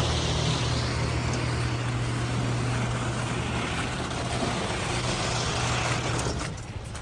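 A motor vehicle's engine running close by, a steady low hum over street noise, which drops away about six and a half seconds in.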